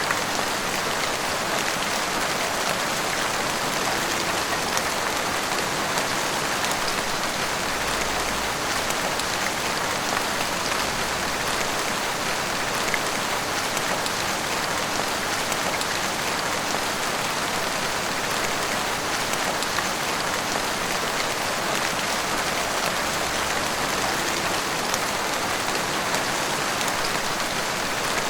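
Heavy rain falling steadily on rooftops and the street, a dense even hiss with many fine drop ticks.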